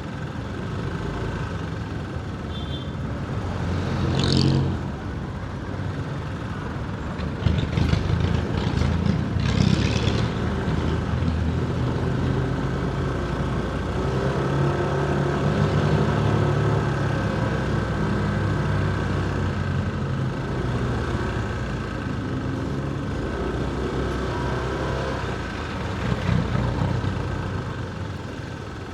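Motorcycle engine running while riding through city traffic, its pitch rising and falling with the throttle. Louder rough, clattering stretches come about eight and ten seconds in.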